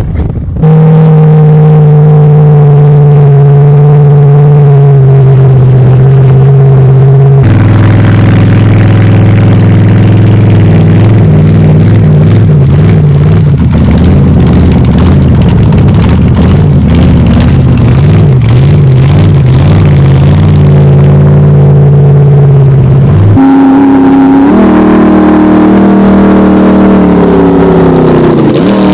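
Diesel monster truck engine running hard and loud. Its pitch holds steady, then shifts abruptly twice, with a warbling stretch in the middle.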